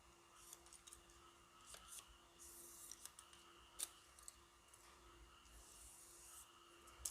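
Faint crackle and rubbing of rigid foam being cut on a homemade hot-wire foam cutter, with small scattered clicks as the pieces are handled. Two short hissy rustles come about two and a half and five and a half seconds in, and a sharper click near four seconds and again near the end.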